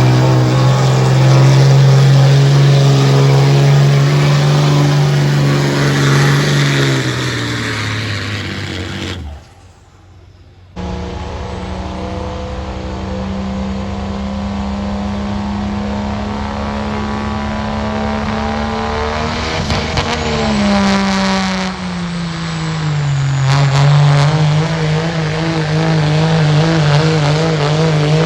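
Diesel pulling truck engines running hard at high, steady revs during a pull down the track. About nine seconds in, the sound cuts off for a second or so, then a second run starts. Its revs sag briefly around two-thirds of the way through and then climb back.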